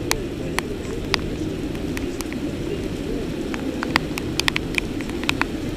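Heavy rain falling steadily, a continuous rushing noise, with scattered sharp taps of drops striking close to the microphone, more frequent in the second half.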